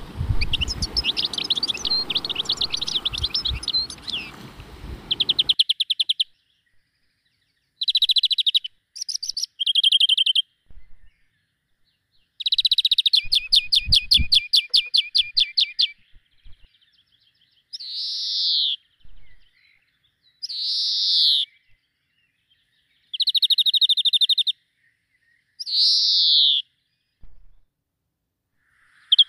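Songbirds singing: dense chirping for the first few seconds, then separate phrases of fast, buzzy trills alternating with single downward-sliding whistled notes, with short silent gaps between the phrases.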